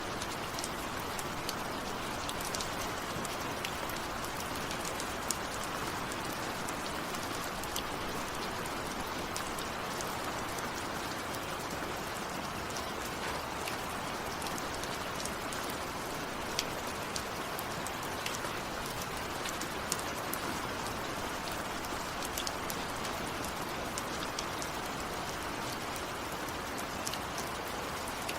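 Steady rain falling, with many sharp ticks of single drops scattered through it.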